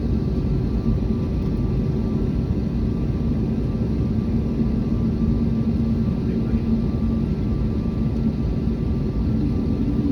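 Airbus A321neo jet aircraft noise: a steady low rumble with a steady hum over it, unchanging throughout.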